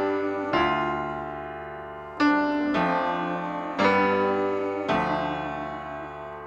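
Background piano music: slow sustained chords, each struck and left to fade before the next, about one every second or so.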